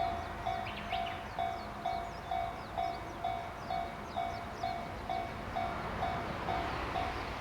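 Japanese railway level-crossing warning bell ringing in a steady, even clang about twice a second, over a low rumble.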